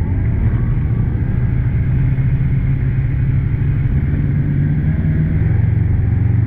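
Side-by-side UTV engine running steadily, its low note dropping a little about five seconds in.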